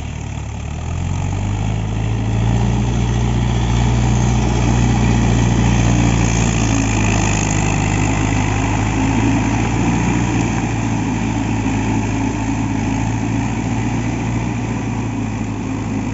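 Mahindra Yuvo Tech+ 575 DI tractor's diesel engine running under a rotavator's load. It revs up about a second in and then holds steady at the higher speed.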